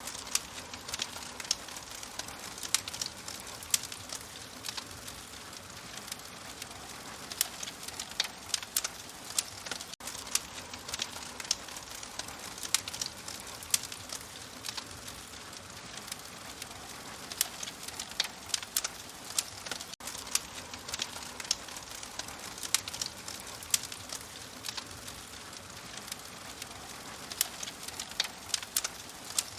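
Wood fire crackling in a fireplace: frequent irregular sharp pops and snaps over a soft, steady hiss.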